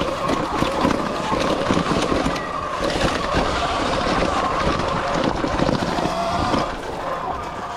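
Sur Ron X electric dirt bike riding rough singletrack: the electric motor's whine drifts up and down in pitch with the throttle, over a steady rush of noise and many small knocks and rattles as the bike crosses roots and bumps.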